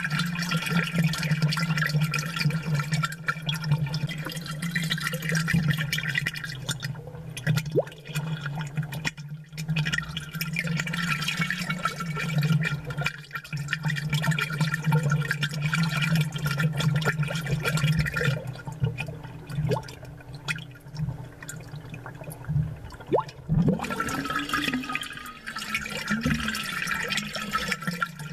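Aquarium water bubbling and gurgling from air bubbles, amplified close up, over a steady low hum.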